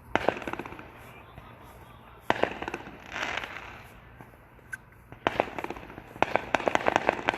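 Fireworks going off in clusters of sharp cracks: a burst at the start, another about two seconds in with crackling just after, then a long run of rapid pops and cracks from about five seconds on.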